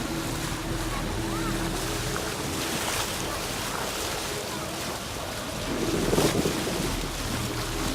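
Boat motor running steadily with wind and the wash of the sea around it, and a louder rumble of wind or water about six seconds in.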